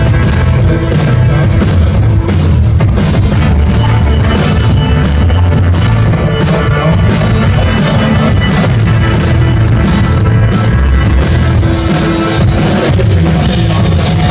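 Live band playing loud rock-leaning music, with a steady drum kit beat, heavy bass and guitar, as heard from the audience through a camera microphone.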